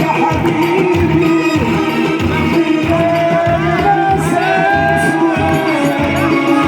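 Upper Egyptian Sa'idi folk music played live, with singing and a melody gliding over a steady drum beat.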